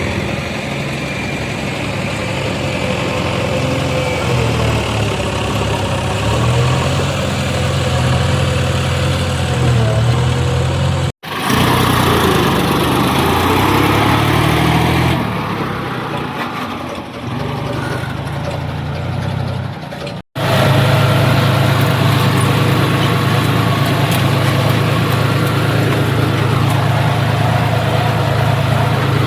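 Heavy machinery diesel engines running, their pitch rising and falling as they rev under load, in three clips joined by two abrupt cuts; the last stretch runs steadier.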